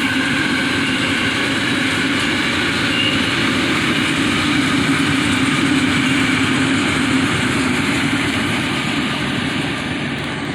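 BART electric train rolling slowly along the platform: a loud, steady rumble with a low hum, easing off slightly near the end.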